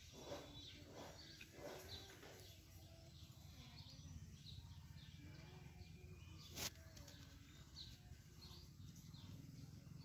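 Faint outdoor ambience: small birds chirping now and then over a low steady hum, with one sharp click about two-thirds of the way through.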